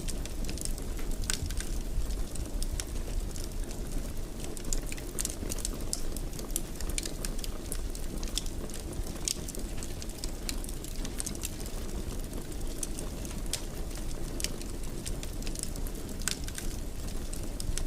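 Wood fire burning in a fireplace: a steady low rumble with irregular sharp crackles and pops throughout.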